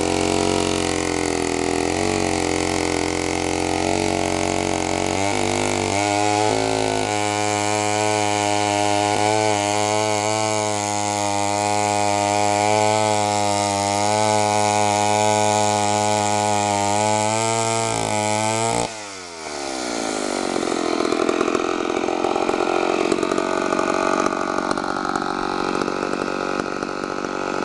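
Homelite Zip 77cc two-stroke chainsaw engine running at a steady pitch, with small shifts in speed about five to seven seconds in. Near nineteen seconds it dips briefly and turns into a rougher, noisier sound as the saw cuts into wood.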